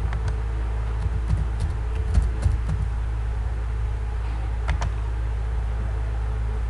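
Steady low electrical hum with scattered computer keyboard and mouse clicks: a quick run of taps between about one and three seconds in, and a double click near the five-second mark.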